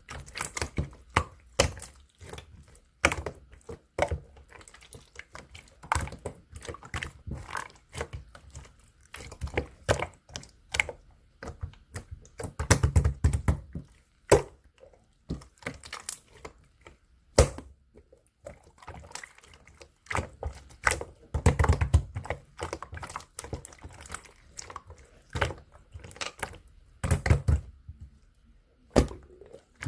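Green pearl slime being squished and pressed by hand, making a dense, irregular stream of sharp clicks and pops, with a few heavier squelchy stretches about 13, 22 and 27 seconds in.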